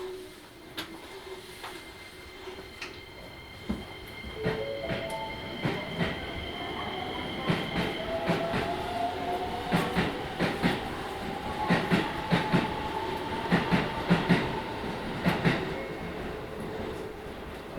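Electric train accelerating, its motor whine rising steadily in pitch. Its wheels click over rail joints in quick pairs, louder and faster in the second half.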